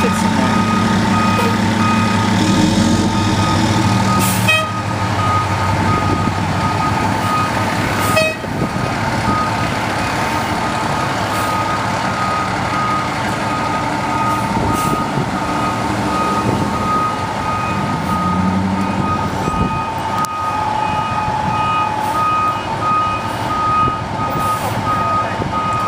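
Fire engine backing up, its reversing alarm beeping steadily over the running engine, with a couple of sharp clicks about four and eight seconds in.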